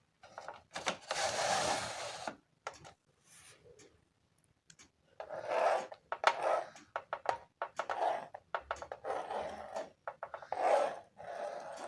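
Scratchy rubbing and scraping strokes in short runs, broken by small clicks and taps, as of writing on a board or sheet.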